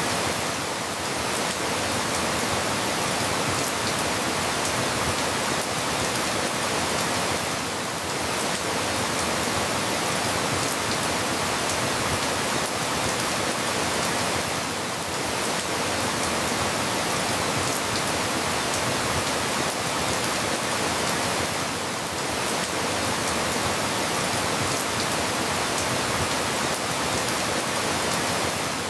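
Steady rain falling, an even hiss that dips slightly in level about every seven seconds.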